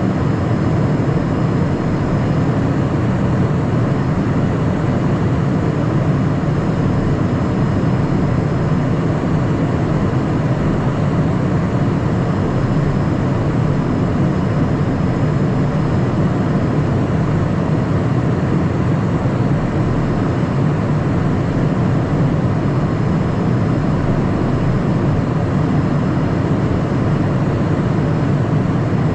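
Steady cockpit noise of a Cessna Citation Mustang light jet in flight: a loud, even rush of airflow and the hum of its twin turbofan engines, with a faint steady high whine.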